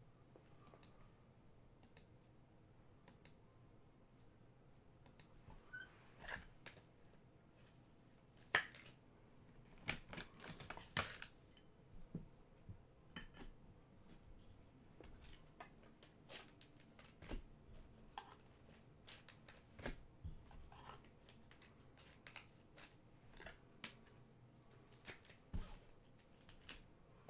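Faint crinkling, scraping and clicking of trading-card packs being opened and cards handled, busiest around ten seconds in.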